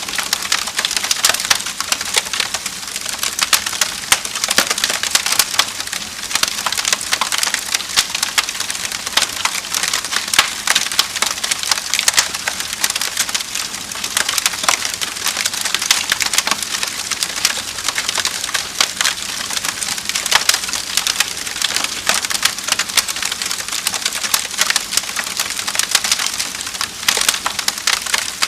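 Wood fire crackling in a fireplace: a dense, irregular run of sharp pops and snaps over a steady hiss.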